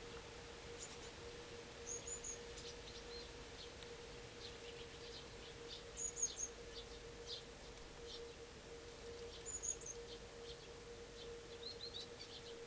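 Faint calls of small songbirds: short high chirps in little groups about two, six and nine and a half seconds in, with scattered shorter calls between them. A steady low hum runs underneath.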